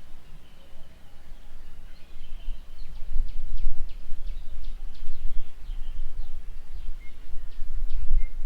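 Birds calling: thin high calls, with a run of short, quick downward-sweeping notes in the middle, over a steady low rumble of outdoor background noise.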